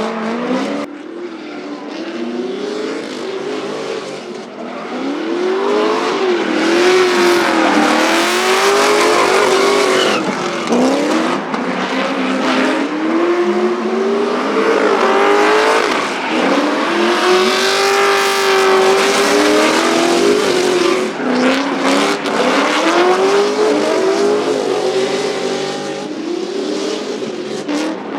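Drift car engines revving hard, the pitch climbing and dropping again and again, with tyre squeal.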